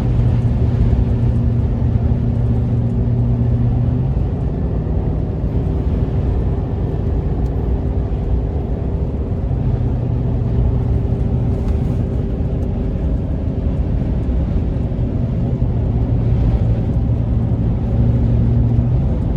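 Road and engine noise inside a moving vehicle's cab on the highway: a steady rumble with a low engine drone that fades and comes back a couple of times.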